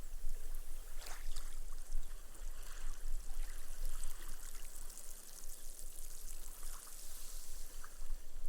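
Small, gentle waves washing up a sandy beach and sinking into the sand: a soft wash about a second in, then a fine crackling fizz of foam bubbles bursting as the water drains away, fading near the end.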